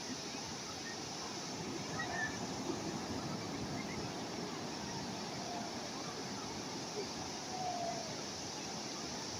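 Calm sea waves washing steadily, a continuous even surf noise with no distinct breaks, plus a few faint short chirps or distant voices.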